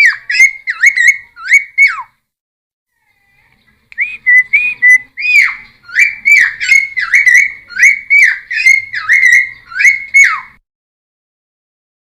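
Cucak timor singing: loud whistled notes, about two a second, each swooping down at its end. A short run, a pause of about two seconds, then a longer run that stops about ten and a half seconds in.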